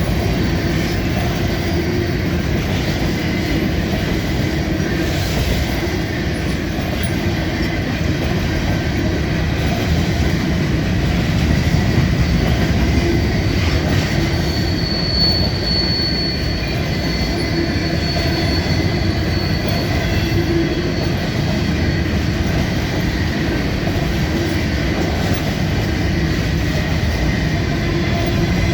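Freight train cars rolling past with a steady, loud rumble of steel wheels on rail and a thin, high wheel squeal about halfway through.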